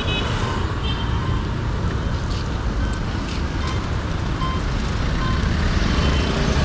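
Street traffic: motor vehicles running by in a steady mix of engine rumble and road noise, with a few short, faint high-pitched tones here and there.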